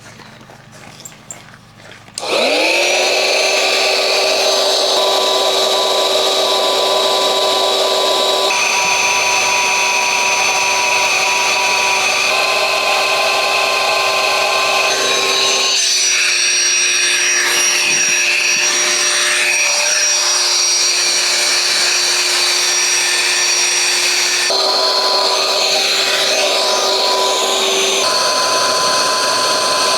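A small electric blower motor starts about two seconds in, its whine rising as it spins up, then runs loudly and steadily, the pitch shifting a few times.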